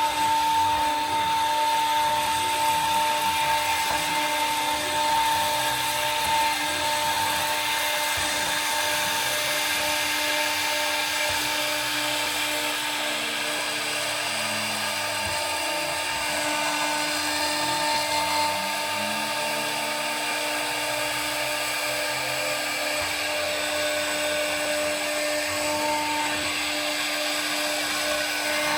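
CNC router spindle running steadily at high speed with a drill-like whine while a 1.8 mm end mill takes very light passes through 1/8-inch aluminum sheet. Lower tones rise and fall for several seconds around the middle as the machine moves.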